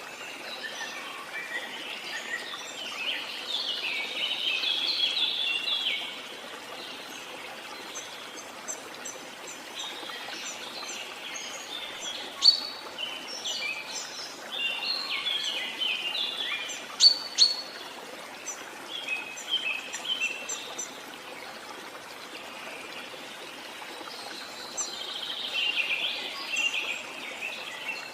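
Steady rush of a jungle waterfall, with birds chirping over it in several bouts and a couple of sharp, louder notes around the middle.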